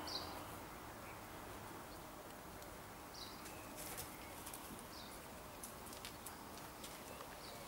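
Quiet outdoor garden ambience with a few short, high bird chirps at irregular intervals, and faint scattered clicks.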